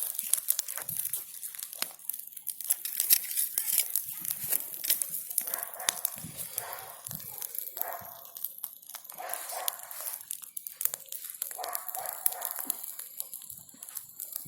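Burning branches in a large bonfire crackling and popping in dense, irregular snaps. Several short pitched calls come through about midway.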